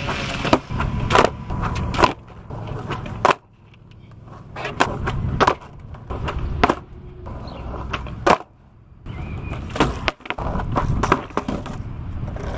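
Skateboard wheels rolling on concrete with repeated sharp clacks of the board popping and landing, about a dozen, as tricks are tried on a wooden surfboard-style deck fitted with skate trucks.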